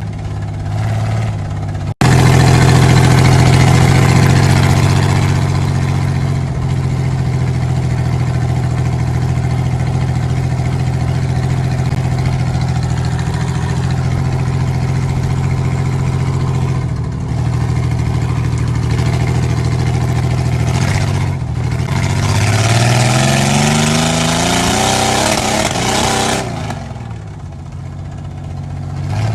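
Engine of a W-body Buick Regal demolition derby car running loudly during a test drive, with the sound cutting in abruptly about two seconds in. Near the end the engine pitch climbs as it accelerates, then falls away.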